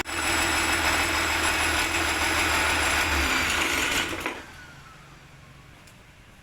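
An engine running steadily, then shutting off about four seconds in, a whine falling away as it winds down.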